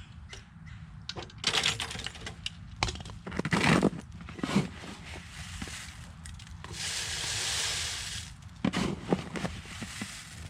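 Irregular crunching, cracking and clicking of ice, in clusters of sharp knocks, with a short rushing hiss about seven seconds in.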